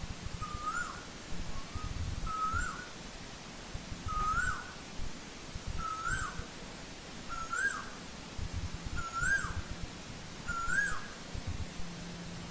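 Asian koel (tu hú) calling: a series of seven short rising whistled notes, about one every second and a half.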